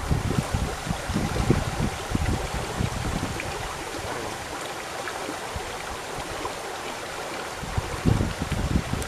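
Steady rush of flowing river water, with low buffeting rumble on the microphone at the start and again from about eight seconds in.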